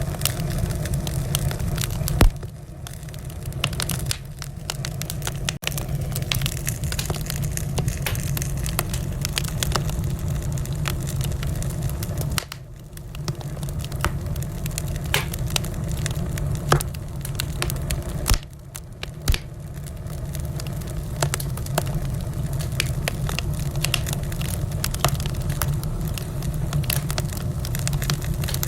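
Wood fire burning in a fireplace: dense crackling and popping over a steady low rumble, dipping briefly quieter three times.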